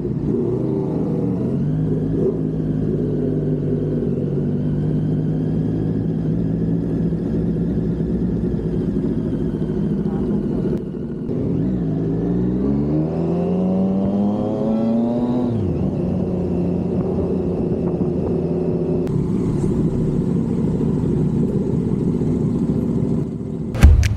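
Large-displacement motorcycle engine running under way, its pitch climbing steadily about halfway through and then dropping, as when accelerating through a gear and shifting up. A loud thump comes right at the end.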